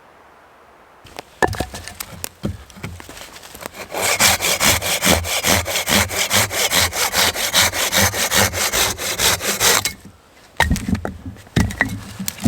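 Hand saw cutting through wood: a few uneven strokes starting about a second in, then a steady run of strokes from about four seconds. There is a short break near the end, and then the sawing starts again.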